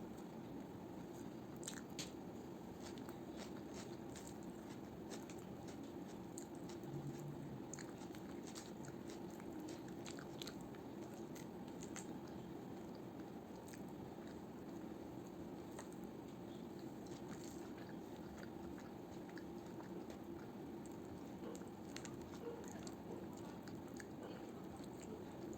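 A person chewing and biting food close to the microphone, with many small irregular clicks and smacks over a steady low background noise.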